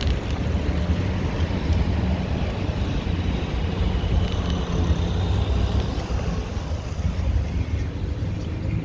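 City road traffic, a steady low rumble of passing cars and heavier vehicles heard from a moving bicycle.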